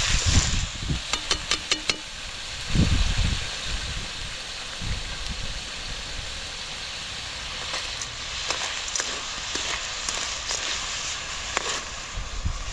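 Food frying in a pan, a steady sizzling hiss, with a quick run of light taps in the first two seconds.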